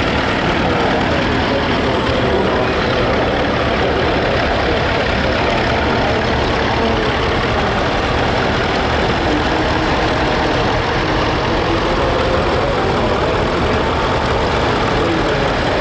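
Vintage farm tractor engines running steadily at low speed.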